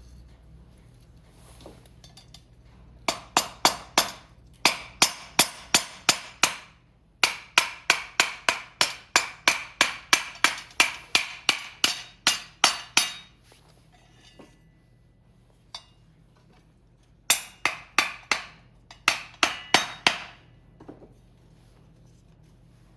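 Pieces of dry split firewood knocked together in quick runs of hard, ringing clacks, about three or four a second, with pauses between the runs.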